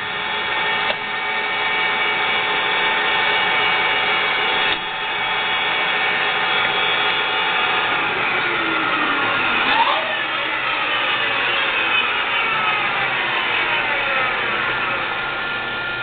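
Vectrax 1760EVS engine lathe running, with a steady whine of several pitches from its headstock gearing and motor. About halfway through, the whine starts to glide in pitch and then falls steadily, as the electronic variable spindle speed is changed.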